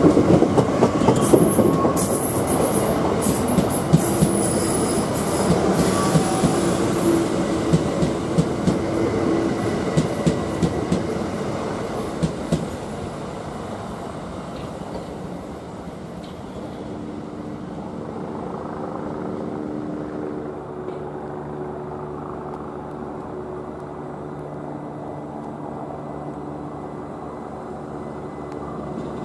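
Southeastern electric multiple-unit train running past close by, its wheels clattering over rail joints with brief high wheel squeal in the first few seconds. After about twelve seconds the clatter fades, leaving a quieter steady electric hum with a few held tones from trains on the line.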